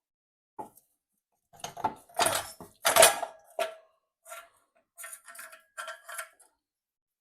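Irregular metallic clinks and clanks as tools and metal parts are handled and knock together. The loudest come about two to three seconds in, with a short ringing note, and lighter clinks follow.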